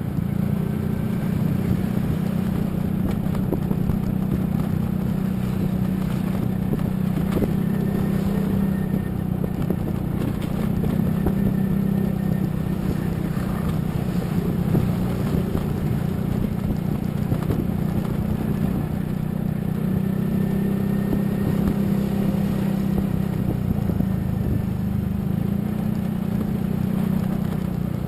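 Steady engine and road noise from a vehicle travelling on a road, a continuous low rumble with no breaks.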